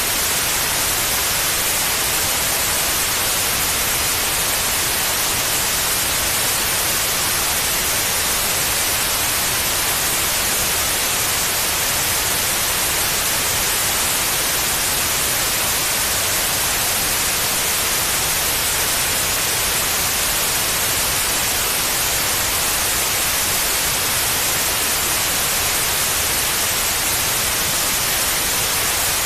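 Steady white noise: an even, unchanging hiss, brightest in the high frequencies, played to soothe a baby to sleep.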